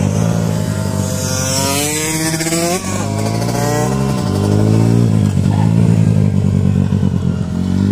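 Small engines of mini racing motorcycles running as several bikes lap a corner. One engine revs up with a steeply rising pitch about one to three seconds in and drops off sharply; the engine note steadies and grows louder again later.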